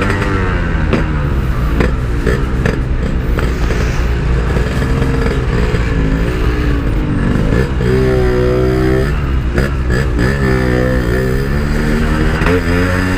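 Yamaha RX-King's two-stroke single-cylinder engine, fitted with a Packing Power aftermarket silencer, on the move. It is revved up and down again and again, with a strong rise and fall about eight seconds in and another a couple of seconds later, as the bike is pushed through slow traffic.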